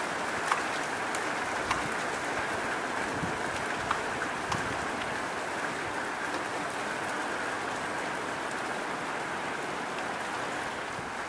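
Steady rain falling, a constant even hiss, with a few sharp ticks scattered through it, most of them in the first few seconds.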